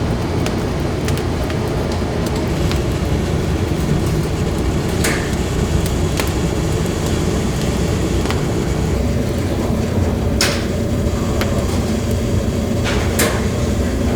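Steady mechanical rumble of running kitchen machinery, with a few sharp metallic clinks, three of them plainest about 5, 10 and 13 seconds in.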